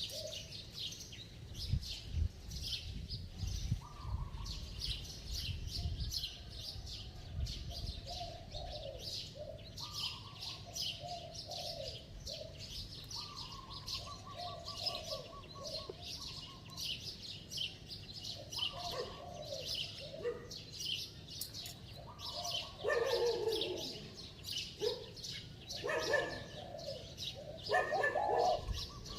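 Spotted dove cooing in repeated short phrases, louder in the last several seconds. A constant dense chirping of small birds runs underneath.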